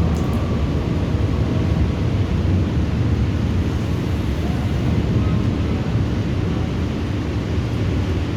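Thunderstorm: a steady wash of heavy rain over a deep low rumble.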